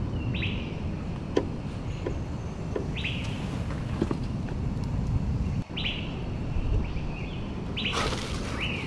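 A bird calling repeatedly, short chirps that drop in pitch about every two to three seconds, over a steady low background rumble, with a few sharp knocks of wood. Near the end comes a loud dry rustle of palm fronds being grabbed.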